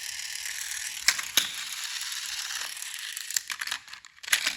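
Small electric motor and plastic gears of a battery-powered toy train whirring steadily as it runs, with a couple of sharp clicks about a second in. The whir stops after about three seconds, giving way to scattered handling clicks and rattles.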